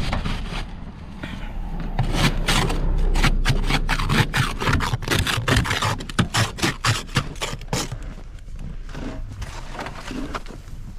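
Fluffy fresh snow being scraped off a surface in quick repeated strokes, several a second, dense for a few seconds and then sparser and quieter near the end, over a steady low rumble.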